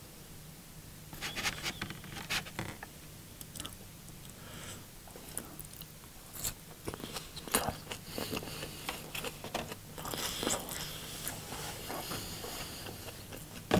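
A person biting and chewing food with irregular short crunches and mouth clicks, over a faint low hum.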